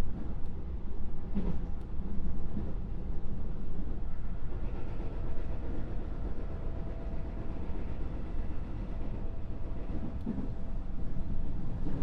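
Inside a JR West 221 series electric motor car (KuMoHa 221) running along the line: a steady low rumble of wheels on rail, with a few sharp rail-joint clicks in the first two seconds and a faint steady hum mid-way.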